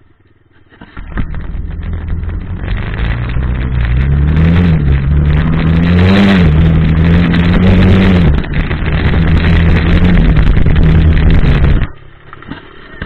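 Dirt bike engine running loud and close, starting about a second in and revving up and down several times, then stopping abruptly near the end.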